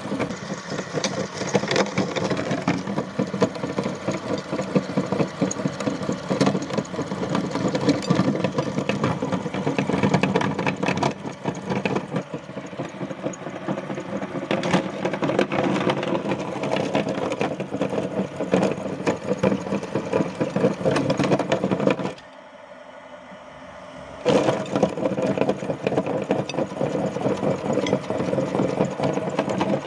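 Electric meat grinder running steadily while grinding chalk, with crunching and cracking throughout. The sound drops away for about two seconds a little past two-thirds through, then the grinder runs on as before.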